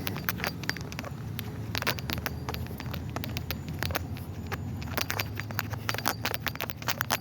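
A low steady rumble of distant traffic, with many irregular sharp clicks and scrapes over it.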